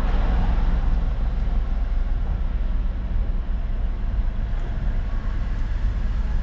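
Steady low rumble of wind and road noise on the microphone of a bicycle being ridden along a street.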